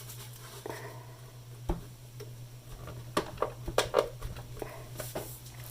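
Scattered light knocks, clicks and rubbing as a wooden radio cabinet and its top panel are handled and turned on a workbench, over a steady low hum.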